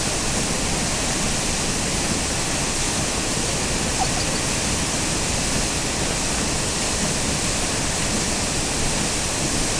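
Zeballos Falls running in flood, swollen by a rain-on-snow event: a steady, unbroken rush of water.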